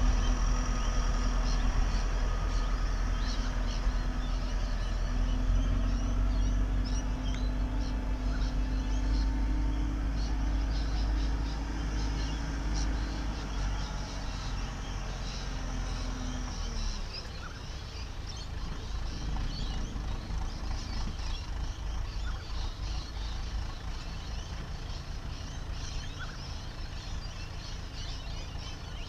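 Heavy diesel engine of earthmoving machinery running steadily, its pitch rising slightly about five seconds in, then dropping away about halfway through. A quieter low rumble carries on, with birds chirping.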